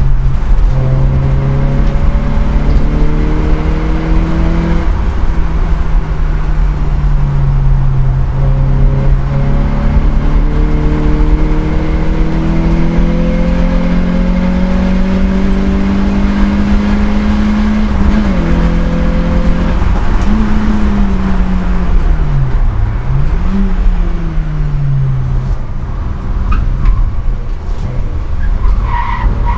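Citroën Saxo VTS rally car's four-cylinder engine under hard acceleration, heard from inside the cabin. The note climbs steadily through long pulls and drops back at each gear change, then falls and rises again several times about two-thirds through as the car brakes and downshifts.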